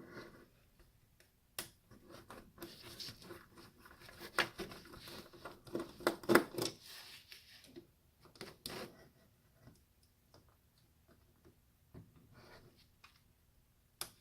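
Small plastic and metal parts clicking, scraping and rattling as an electronic device is pried and pulled apart by hand. The handling is busiest in the middle, with one sharp loud click about six seconds in, then thins to scattered clicks.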